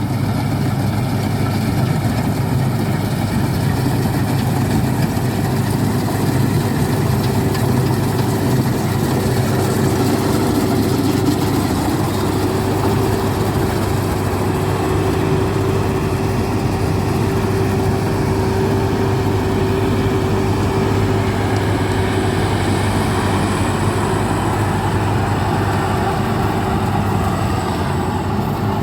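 Combine harvester's diesel engine running steadily at a constant speed.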